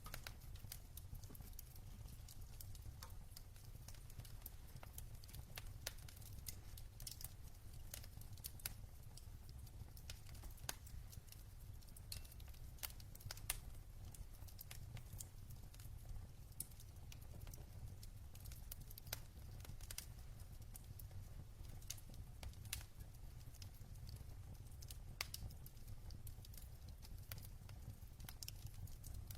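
Wood fire burning in a fireplace: burning logs crackling with irregular sharp pops and snaps over a low, steady rumble.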